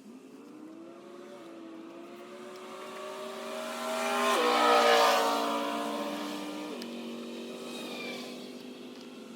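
A motor vehicle's engine passing by. Its pitch climbs as it grows louder, then steps down, with loudness peaking about five seconds in before it fades away.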